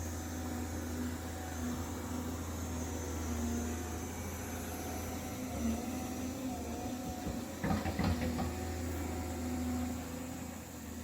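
A motor running steadily with a low hum and faint wavering tones above it. A short cluster of knocks comes about eight seconds in.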